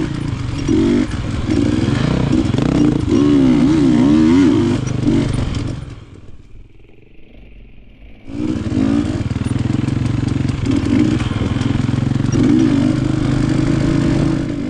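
KTM enduro motorcycle engine revving hard in two long bursts, its pitch rising and falling with the throttle, dropping back to a low running sound for about two seconds in between.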